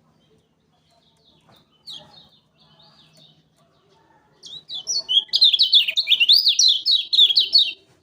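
Kecial kuning (Lombok yellow white-eye) singing: soft high chirps at first, then about halfway through a loud, fast run of high ringing notes, several a second, that ends just before the close.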